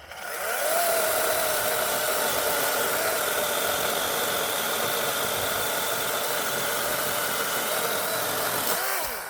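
DeWalt 20V Max compact cordless 12-inch chainsaw's electric motor and chain spinning up and cutting through a thick dead branch: a steady whine with chain rasp that lasts about nine seconds, then winds down and stops near the end.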